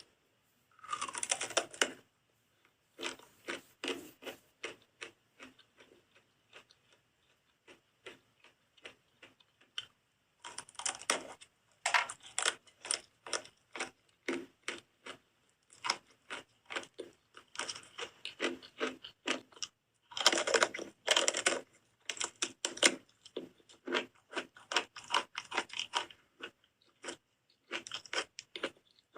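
Close-miked biting and chewing of soap. Dense clusters of sharp clicks come near the start, about ten seconds in and about twenty seconds in, each followed by runs of separate clicks with short pauses between.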